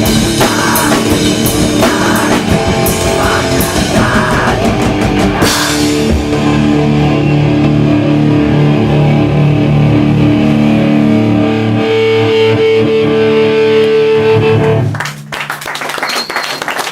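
Hardcore band playing live: drums with cymbal crashes and electric guitars for the first five seconds, then a held, ringing guitar chord that ends the song, cutting off about fifteen seconds in. Audience clapping follows near the end.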